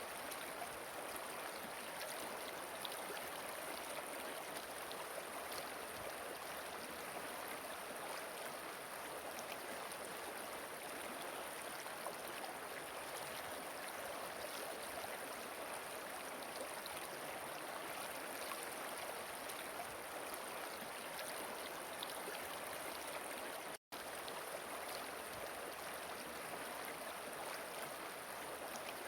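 River water flowing steadily over rocks in a continuous rushing and gurgling stream. It cuts out for an instant about three-quarters of the way through.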